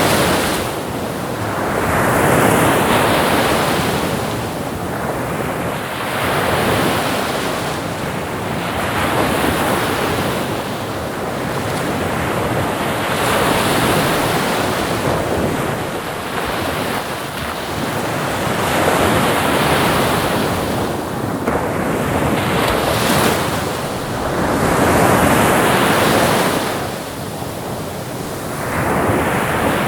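Ocean surf: waves breaking and washing in continuous surges, each swelling and easing over a few seconds, with a constant hiss of water.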